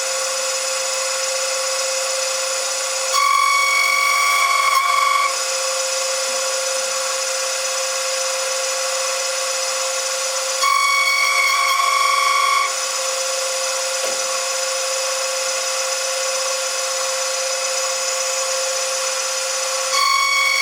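Machine-tool motor running with a steady high whine. It grows louder and brighter for about two seconds, three times, as if taking a cut.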